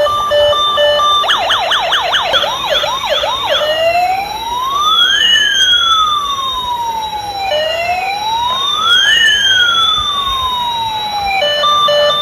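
Toy RC emergency vehicle's electronic siren sound effect. A short beeping tune gives way to a fast yelp of quick rising sweeps, then a slow wail that rises and falls twice with two tones crossing each other; the beeping tune comes back near the end.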